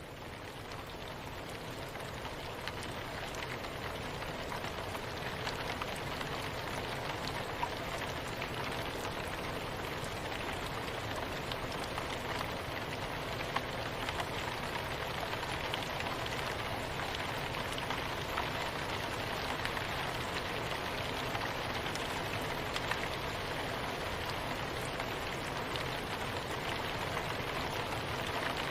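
Steady soft rain falling, a dense even hiss with scattered sharper drop ticks. It fades in over the first few seconds, then holds steady.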